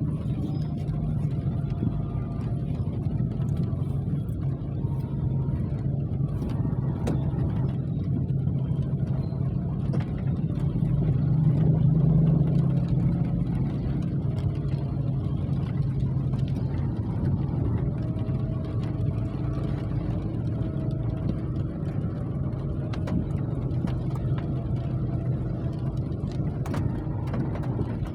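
A steady engine drone, swelling slightly about twelve seconds in, with a few faint clicks over it.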